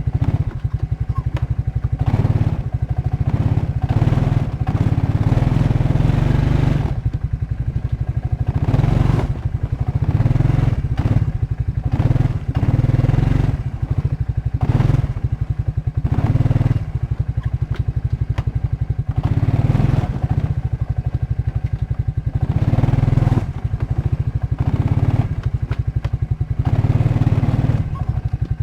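Suzuki QuadRunner 300 ATV engine running and revving up over and over, a surge every second or two, as the quad is rocked back and forth to break it free of the ground it is frozen to.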